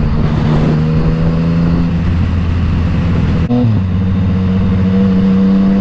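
Yamaha MT-09 inline-three engine running through an Akrapovic exhaust while riding, a steady engine note. About three and a half seconds in there is a brief break and the note steps up to a higher pitch.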